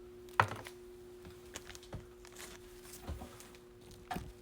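Light clicks and taps of trading card packs being handled and set down on a table, the sharpest about half a second in, over a faint steady hum.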